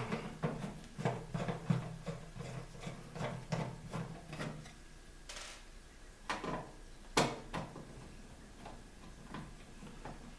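Screws being worked out of a microwave's sheet-metal back panel with a screwdriver: a run of quick light ticks and clicks over roughly the first four seconds, then a few sharper metal clicks about six and seven seconds in.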